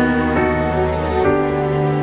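Solo piano playing a slow, gentle new-age piece, with sustained chords over held low bass notes.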